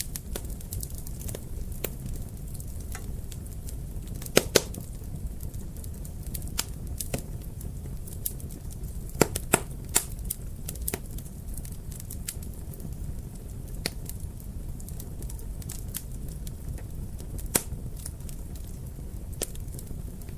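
Wood fire crackling in a fireplace: a steady low rumble of burning with sharp pops scattered through. The loudest pops come as a pair about four seconds in and a cluster around nine to ten seconds.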